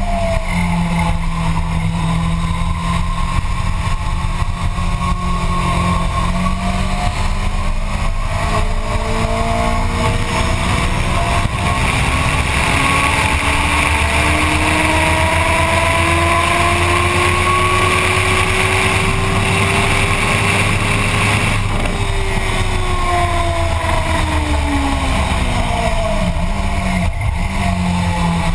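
Motorcycle engine on a racetrack, accelerating hard through the gears. It then holds a long rising pull up to high revs about two-thirds of the way in, before the revs fall away under braking and downshifting. Wind rush is heaviest at top speed.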